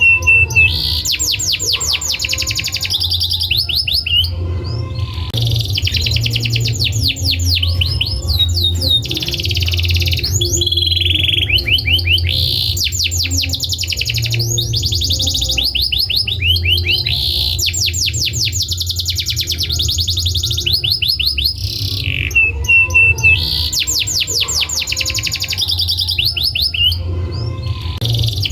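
Domestic canary singing a long, high-pitched song of fast rolling trills, broken by a few brief pauses, over a steady low hum.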